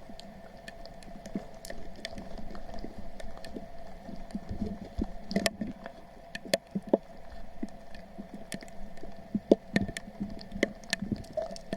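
Footsteps wading through shallow stream water, squelching and splashing irregularly, with scattered small clicks and a faint steady tone underneath.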